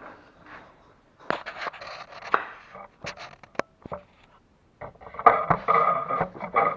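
Wooden top bars and the hive's hinged roof knocking and scraping as they are handled and pushed into place, a series of sharp knocks and clicks. In the last couple of seconds a louder steady hum with several held tones comes in.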